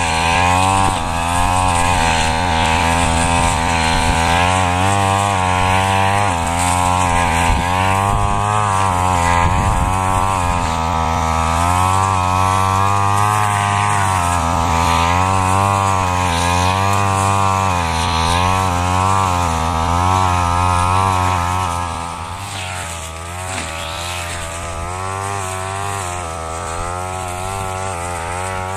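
Brush cutter engine running at high revs while mowing rice straw, its pitch rising and dipping every second or two as the blade takes the stalks. About three-quarters of the way through it settles quieter and lower.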